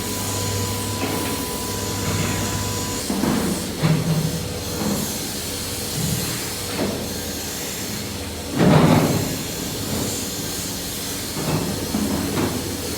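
Factory machinery noise: a steady hiss over a low hum with a thin whine that stops about three seconds in, then irregular knocks and bursts of noise, the loudest about nine seconds in.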